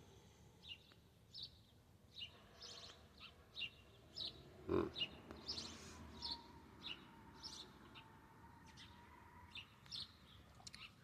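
Birds chirping faintly, with short, high calls repeating every second or so. About five seconds in there is one brief, lower sound.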